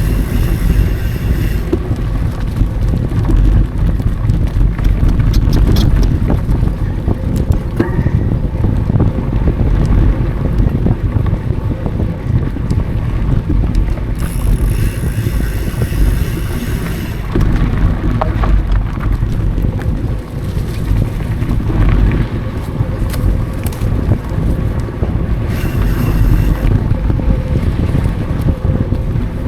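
Mountain bike riding over dry singletrack, heard from an action camera: wind rushing over the microphone with the rolling rumble and rattle of the bike. A high buzz comes in briefly three times: at the start, about halfway through, and near the end.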